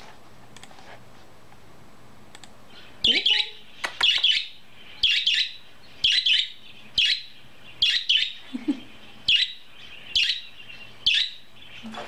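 Budgerigar chirping: short, bright chirps, some in quick pairs, repeating about once a second and starting about three seconds in.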